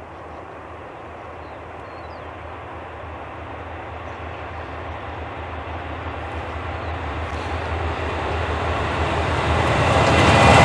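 An approaching freight train led by a GE Dash 9-40CW diesel locomotive. Its low engine rumble and rail noise grow steadily louder, rising most sharply in the last couple of seconds as the locomotives draw level.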